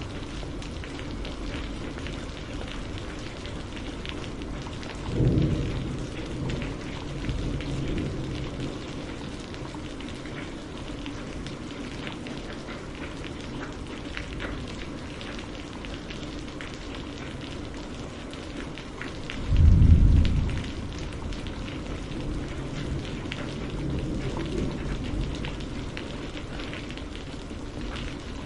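Steady rain falling and pattering on a surface, with low rumbles of thunder: a strong one about 20 seconds in, another about 5 seconds in, and fainter ones between.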